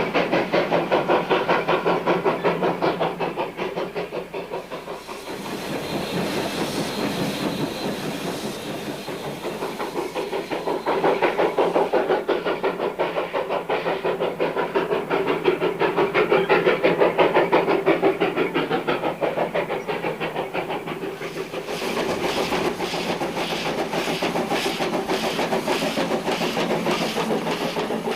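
Steam locomotive working hard up a steep grade: a steady, rapid beat of exhaust chuffs with steam hissing, over the clatter of the train.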